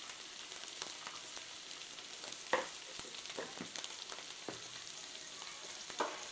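Boiled baby potatoes frying in hot oil in a pan: a steady sizzle with scattered crackles and pops, the sharpest about two and a half seconds in and again near the end.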